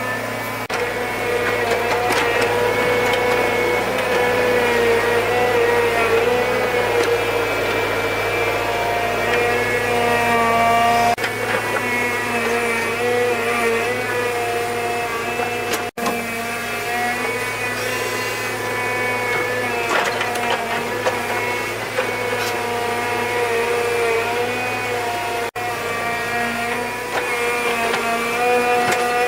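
A motor running steadily, its pitch dipping slightly now and then.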